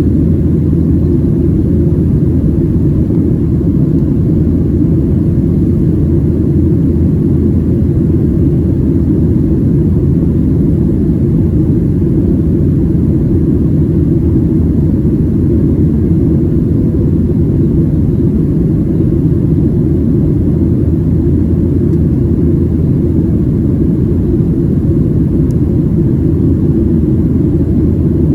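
Steady low rumble of a Boeing 737-700 in climb, heard from inside the cabin: the CFM56-7B jet engines and airflow over the fuselage make an even drone with no changes.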